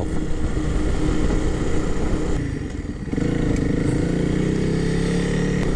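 Honda CRF300L's single-cylinder four-stroke engine running under way, with wind noise. About two and a half seconds in the engine eases off briefly, then pulls again, its pitch slowly rising as the bike accelerates.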